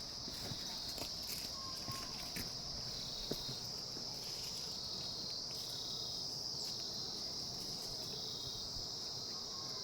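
A steady, shrill chorus of insects, one high-pitched drone with slight regular swells. A few faint clicks sound in the first few seconds.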